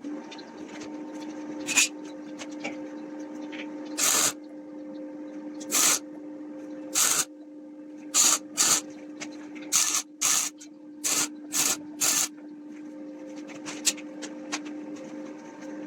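Steady machine hum with about a dozen short, loud hissing bursts, like a spray or air nozzle being triggered on and off.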